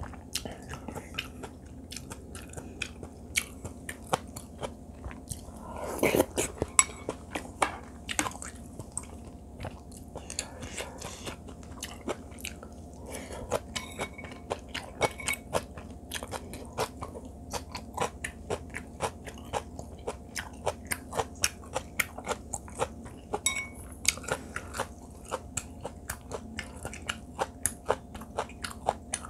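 A person chewing a mouthful of stew and seasoned greens close to a clip-on microphone: many sharp, wet mouth clicks and crunches, with a louder, busier stretch about six seconds in.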